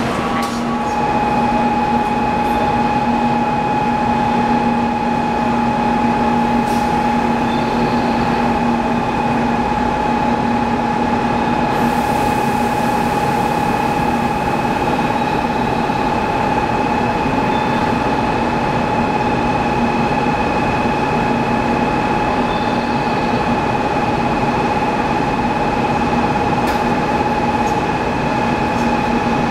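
Steady noise of a 700 series Shinkansen train, with several constant hums held at one pitch and no speeding up or slowing down.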